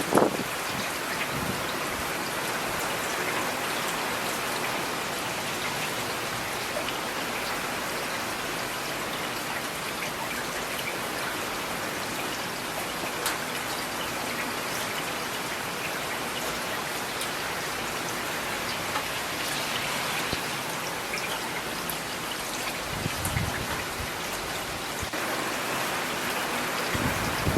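Steady rain falling on hard surfaces, with single drops striking close by. A few brief low thumps stand out, one about two-thirds of the way through and another near the end.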